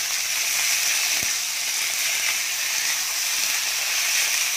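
Chopped tomato, onion and green chillies sizzling in hot oil in a kadai as they are stirred with a spatula: a steady frying hiss, with one light tick about a second in.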